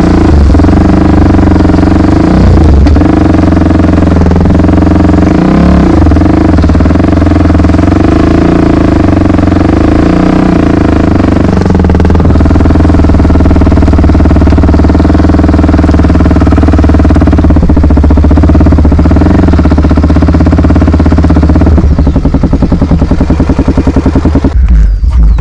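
Honda XR 250 Tornado's single-cylinder four-stroke engine running under way, its note rising and falling a little with the throttle. Near the end it drops to a low, rapidly pulsing chug.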